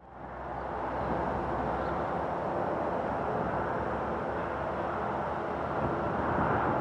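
Airbus A380-861's four Engine Alliance GP7200 turbofans on approach: a steady jet rumble that fades in over the first second and swells slightly near the end.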